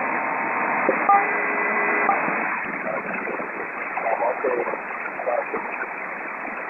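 HF single-sideband radio static hissing steadily, with a SELCAL call sent over it in the first two seconds: two steady tone pairs about a second each. Faint garbled voices follow under the static, another station transmitting over the frequency.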